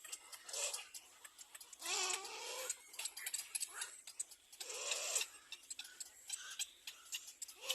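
Baby birds calling: a fast run of short, ticking chirps, broken three times by longer, louder calls that bend in pitch.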